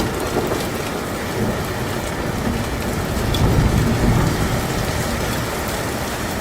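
Steady rain-like noise with low rumbles that swell up about a second and a half in and again around four seconds.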